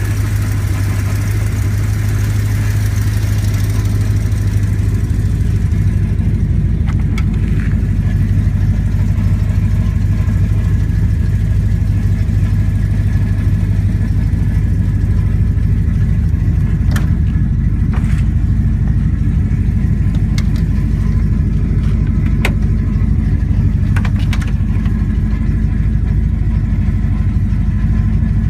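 Twin-turbocharged 1972 Plymouth Valiant's engine running steadily at an even pitch, with a few light clicks now and then.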